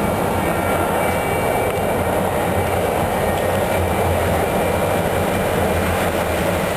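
CTA Budd-built 2200-series rapid transit car running at speed, heard from inside the car: a loud, steady roar of wheels on rail and traction motors. The high-pitched electronic whine these cars make at stops has faded out under the running noise.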